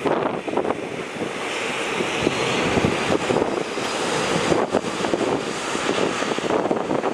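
Jet engine roar of a Boeing 787-9 Dreamliner climbing out after takeoff, with wind buffeting the microphone.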